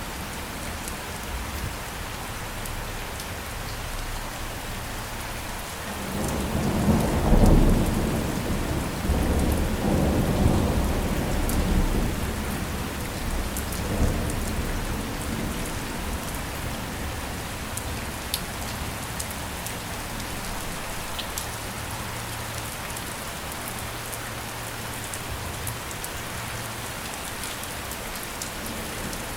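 Steady rain with a roll of thunder that rises about six seconds in, is loudest soon after, and rumbles on in swells for about ten seconds before fading back under the rain.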